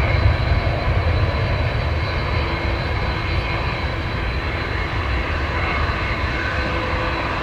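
Airliner engines running, a steady low rumble with a faint high whine above it, easing slightly after the first second or so.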